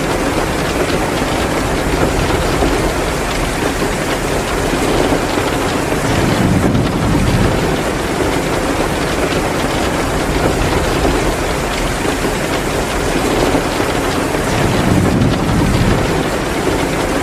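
Heavy, pouring rain, a steady dense hiss that swells louder twice.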